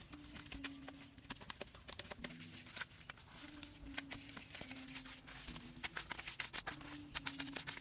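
Rapid, irregular tapping and scraping, with background music of low held notes under it.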